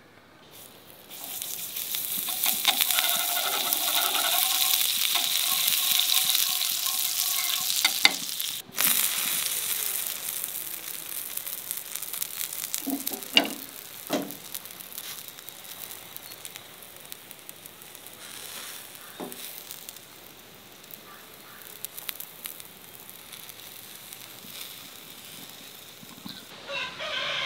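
Chicken burger sizzling on a hot non-stick pan over a gas burner. The sizzle is loud for the first eight seconds or so, then quieter, with a few short knocks.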